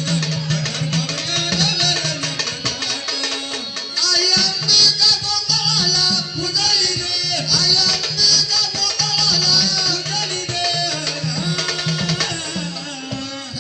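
Marathi folk song: a sung melody over instrumental accompaniment with fast, steady percussion.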